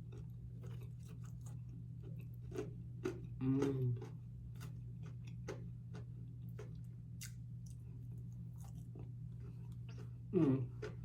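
Close-miked chewing and biting of fried fish, with many small wet clicks and crunches from the mouth. A brief voiced sound comes about a third of the way in and another near the end.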